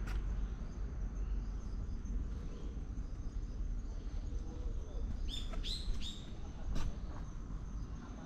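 A bird gives three quick chirps about five seconds in, each falling slightly in pitch, over a steady low outdoor rumble. A couple of sharp taps, like footsteps on stone paving, come near the start and just before the end.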